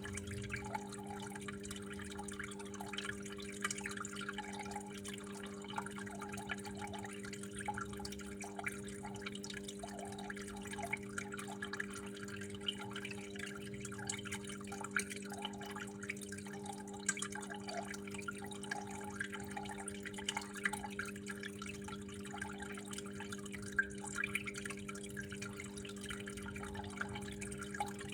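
Water trickling and dripping, with many small irregular plinks and patters. A steady low hum runs underneath.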